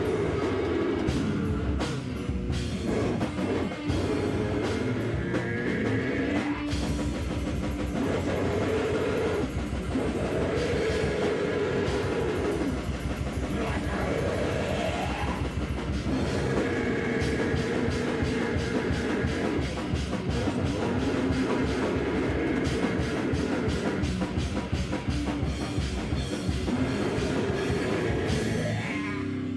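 Live rock band playing loud and without a break: drum kit and guitar, the music dropping out briefly near the end.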